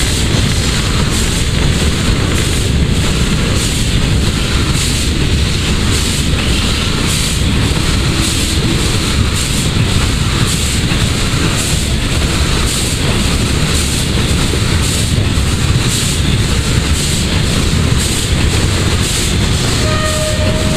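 PKP Ol49 steam locomotive under way, heard from the footplate: rapid, evenly spaced exhaust beats over a heavy rumble of the running engine and wheels on the track. Near the end a short pitched tone with several overtones sounds.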